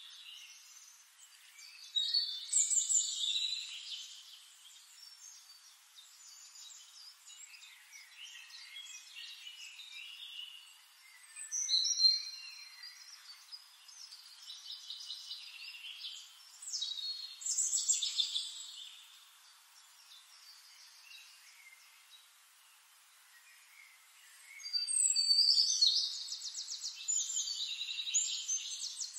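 Birdsong: high, quick chirps and trills coming in four louder bursts of a few seconds each, with softer chirping and a faint hiss between them.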